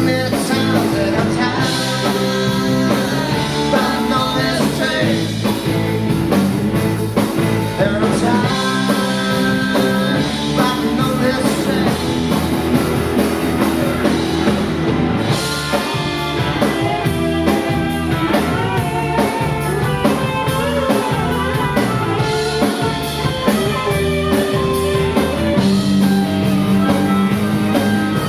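Live rock band playing a rock-and-roll song with guitar and singing, at a steady level.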